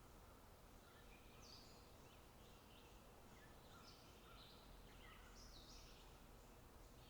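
Faint birdsong: quick chirping and twittering phrases from small birds, coming every second or so, over a faint steady low rumble.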